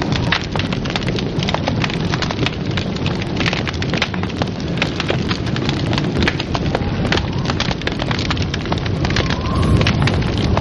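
Wood fire burning in a fireplace, crackling and popping in quick irregular snaps over a steady low rush of flame.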